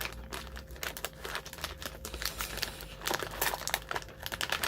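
Plastic snack wrapper being handled and torn open, a run of irregular crinkling and crackling.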